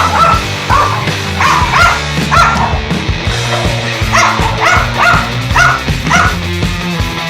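A dog barking in quick runs of short, high yaps, pausing for a moment about halfway, over rock music.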